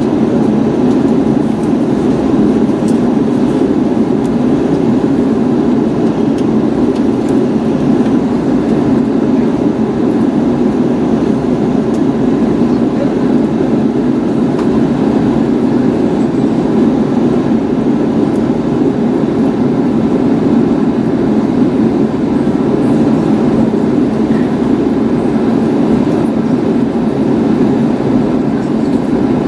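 Steady low rumble of cabin noise inside an Airbus A321neo, from its engines and the airframe, even and unchanging throughout.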